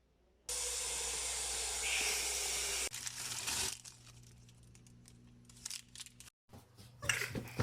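A steady hiss lasting about two and a half seconds, starting half a second in and cutting off abruptly, followed by quieter rustling and small clicks.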